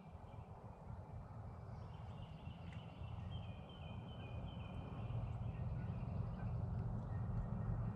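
Low outdoor rumble of wind on the microphone, growing louder toward the end, with a faint series of short high bird calls about two to four seconds in.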